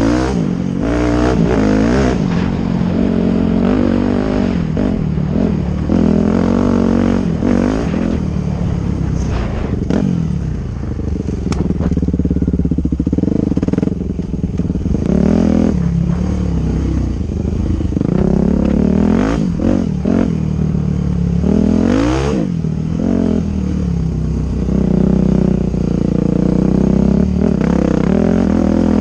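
Small dirt bike engine revving, its pitch climbing and dropping again and again as the throttle is opened and closed, with a few short knocks.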